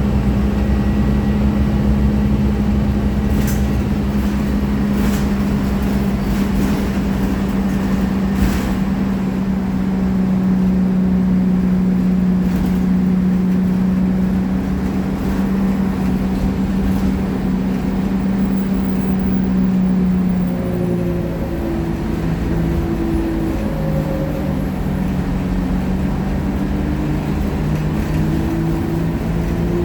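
Scania K-310IA bus engine running steadily under way, with a few brief knocks and rattles. About two-thirds of the way through, its note drops and wavers at a lower pitch.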